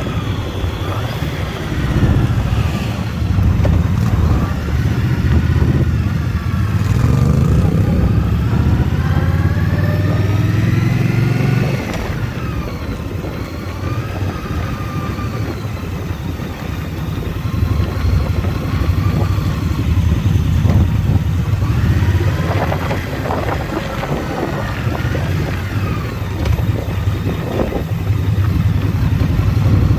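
Motorcycle engine running under way, the revs climbing for a few seconds before a sudden drop about twelve seconds in, then rising and falling again later.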